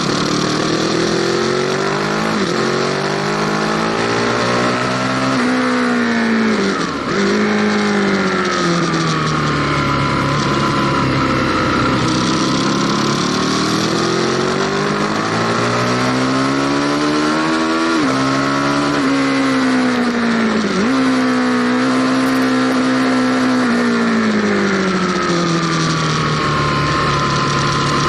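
Aprilia Tuono Factory motorcycle engine heard on board under way, its pitch climbing as it accelerates and falling back, with a few sudden drops in pitch at gear changes.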